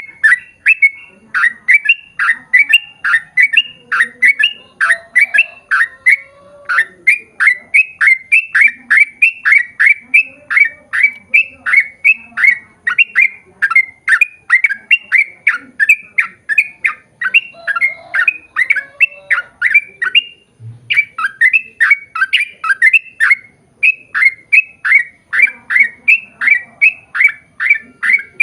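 Yellow-vented bulbul singing a long, rapid run of short notes, about three a second, each dropping in pitch, with one brief break about two-thirds of the way through.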